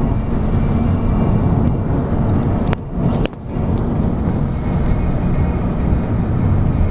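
Steady low road and engine rumble heard inside a moving car's cabin, dropping away sharply twice for a moment near the middle.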